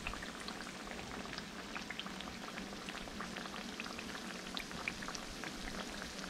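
Hand pies frying in a pan of hot grease: a steady sizzle with many small, irregular pops and crackles.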